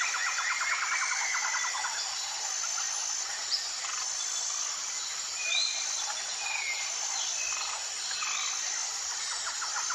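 Jungle ambience: a steady high-pitched insect chorus with a repeating pulsed insect call over it, a fast rattling trill during the first two seconds, and scattered short bird chirps and whistles.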